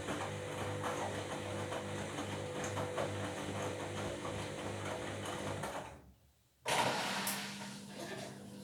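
Washing machine running with a steady mechanical hum. About six seconds in the sound drops out for a moment, then comes back with a sudden loud rush that fades into a slightly different hum.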